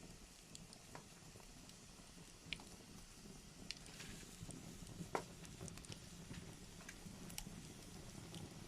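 Wood fire in a fireplace crackling, with a low steady hiss and scattered sharp pops and snaps, the loudest about five seconds in.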